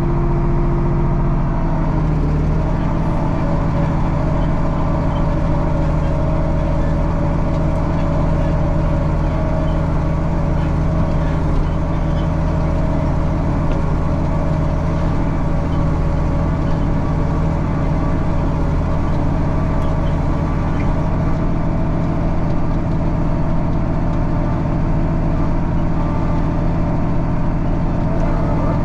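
Tractor engine heard from inside the cab, pulling a ripper through the ground. Its note shifts about two seconds in as it takes the load, then runs steady.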